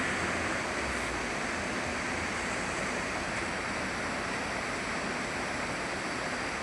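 Steady, unbroken rush of a river's flowing water.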